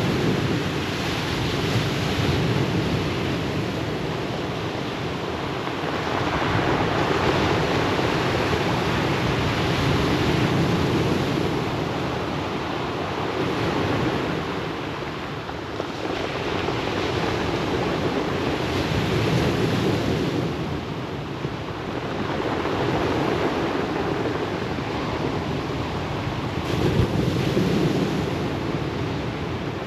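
Ocean waves breaking and washing up a pebble beach: a continuous surf rush that swells and eases every few seconds as each wave comes in.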